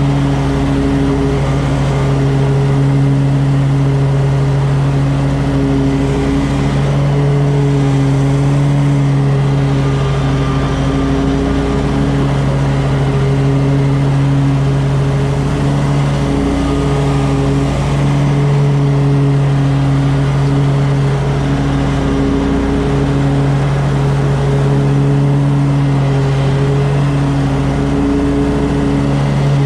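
An engine running steadily, a constant droning hum that briefly dips every few seconds.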